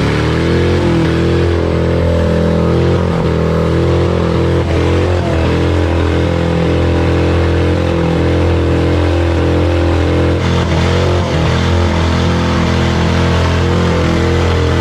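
Ford Crown Victoria's 4.6-litre V8 running at a steady, raised engine speed just after revving up, its pitch holding nearly constant.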